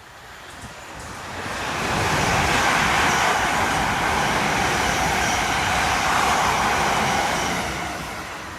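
A train passing by: its noise builds over a second or two, stays loud for about five seconds, then fades near the end.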